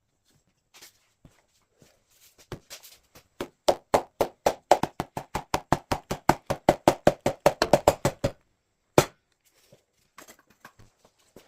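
Ratchet wrench clicking in a fast, even run of about nine clicks a second for several seconds while a bolt is worked during an engine teardown, with a few scattered knocks before it and one single click after.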